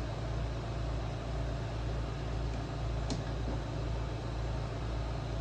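A steady low mechanical hum, with a single light click about three seconds in.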